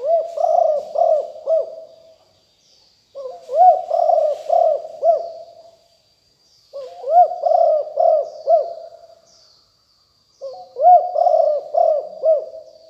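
Spotted dove cooing: four phrases, each a run of several rising-and-falling coos, repeated about every three and a half seconds. Faint high chirps of other small birds and a thin steady high whine sit behind it.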